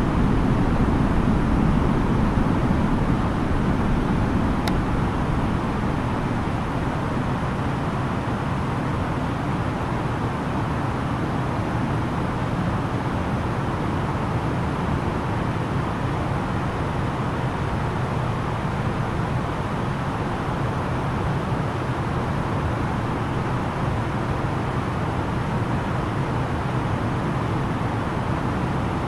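Steady cabin noise of an Airbus A330-900neo in flight: a constant rush of airflow over the fuselage with the low hum of its Rolls-Royce Trent 7000 engines. The noise eases slightly in the first few seconds, then holds level, with one faint click about five seconds in.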